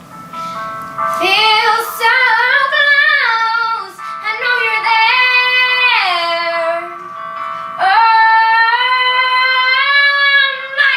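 A female singer sings long held notes with slides and runs over a steady instrumental backing track. The voice comes in about a second in, breaks briefly around four seconds and again near seven seconds, then holds one long note to the end.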